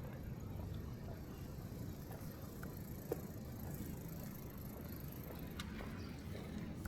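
City street ambience: a steady low rumble of traffic, with a few faint clicks and a short knock about five and a half seconds in.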